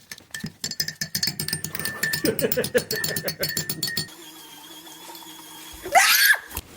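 A parrot clicking and chattering, with a run of quick falling calls about two seconds in; after an abrupt change, a quieter steady hum and one short, loud call near the end.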